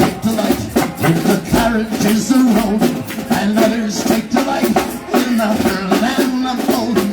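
Live band playing an instrumental passage: a drum kit keeps a steady beat under a bending melodic lead line.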